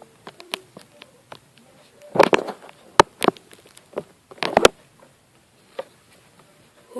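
A series of sharp clicks and knocks from small objects being handled close to the microphone, loudest in bunches about two, three and four and a half seconds in.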